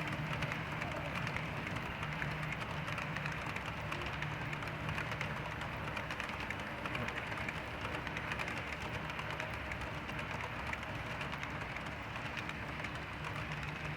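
HO scale model train running on the track with its sound decoder muted: a steady motor hum and the rolling noise of wheels on rails, with fine clicking.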